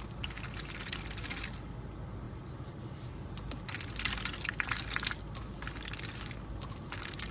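Irregular clusters of small crunching and crackling clicks over a low steady rumble.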